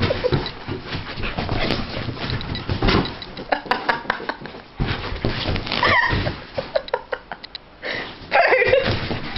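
Dog panting and whining, with a few short high-pitched whines about six and eight seconds in.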